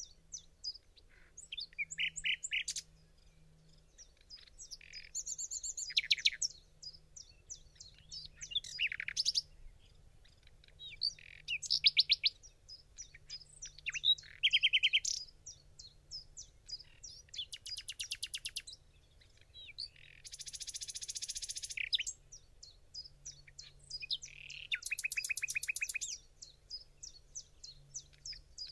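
Wild birds singing: bouts of rapid, high-pitched trills a second or two long, with scattered chirps between them.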